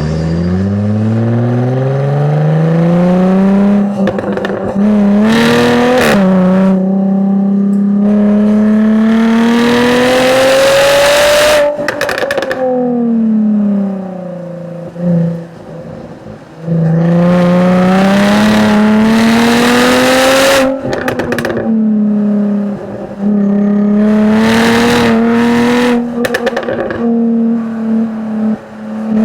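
2013 Jaguar F-Type V6 S's supercharged 3.0-litre V6 heard through its exhaust on track, revving up through the gears with its pitch dropping at each upshift, then falling away under braking and climbing again. Sharp cracks from the exhaust come at several lifts and shifts, about six seconds in, near twelve seconds, around twenty-one seconds and a few times near twenty-five seconds.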